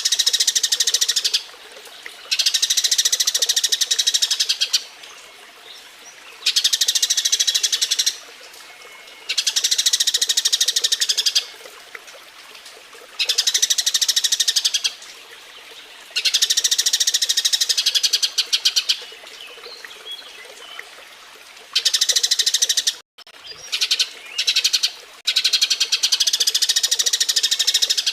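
Eurasian tree sparrow mating chatter: rapid, dense chirping in bouts of one to three seconds, separated by short pauses.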